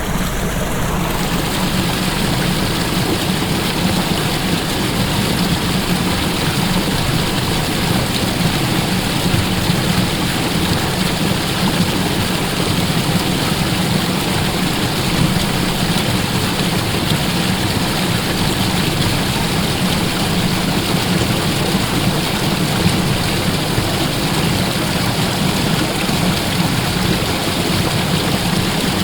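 Waterfall: falling water rushing in a loud, steady roar with no let-up.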